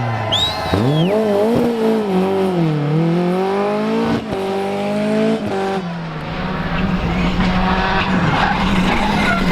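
Rally car engine revving up and down through gear changes, with two sharp cracks around four and five and a half seconds in. From about six seconds the engine holds a steady note under a rushing noise of tyres skidding.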